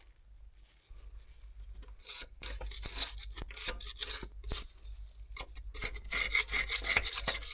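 A hand scraper scraping caked oily grime off an excavator engine, in a run of rough strokes about two seconds in and another from about halfway to the end.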